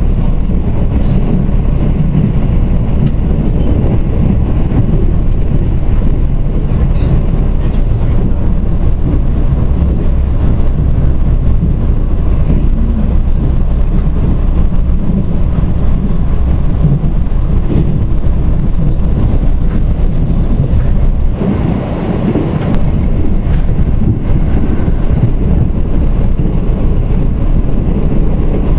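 Mugunghwa-ho passenger train running along the track: a loud, steady rumble of wheels on rails. About three quarters through, the rumble briefly drops and thins, then returns.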